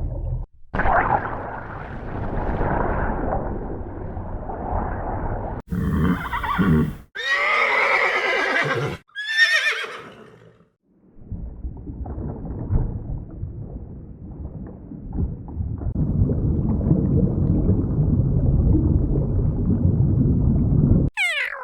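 Horse whinnying about six to ten seconds in: high, wavering calls, the last one falling away in pitch. Before and after it are longer stretches of rough noise, broken by abrupt cuts.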